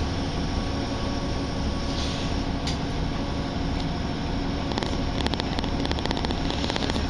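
Inside a diesel passenger train running along, a steady rumble and hum, with a patter of light clicks over the last couple of seconds.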